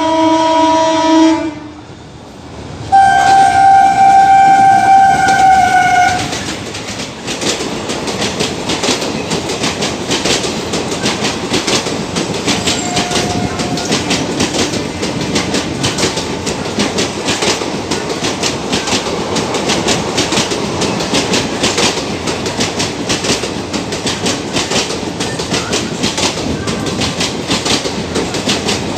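Indian Railways WAP-4 electric locomotive sounding its horn in two steady blasts, one at the start and a longer one about three seconds in, as it passes at speed. After that comes a long, fast clickety-clack of the express coaches' wheels over the rail joints, with a steady rumble.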